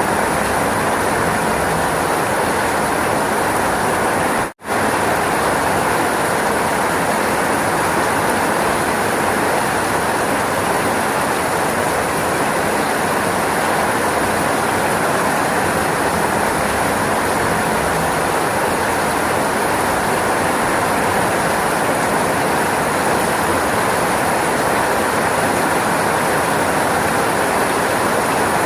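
Steady rainfall, an even rushing hiss, that cuts out for an instant about four and a half seconds in.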